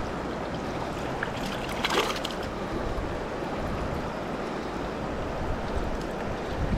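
River water rushing steadily, with a brief louder noise about two seconds in.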